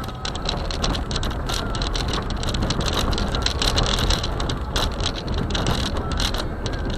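Car driving on a snowy road on Blizzak winter tyres: a steady low road rumble with a dense, irregular crackle of clicks over it.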